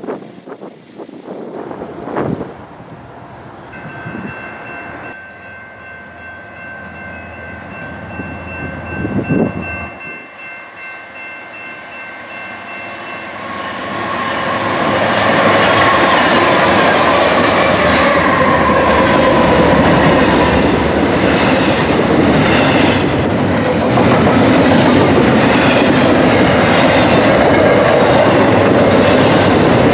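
A BNSF double-stack intermodal freight train approaching and passing close by. The first half is fairly quiet. From about halfway through it turns loud as the diesel locomotives arrive, followed by the rumble and rhythmic clickety-clack of the container cars' wheels on the rail joints.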